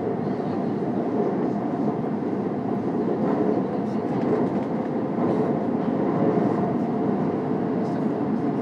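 Keikyu train running, heard from inside the passenger car: a steady rumble of wheels on the track with a faint, even motor tone.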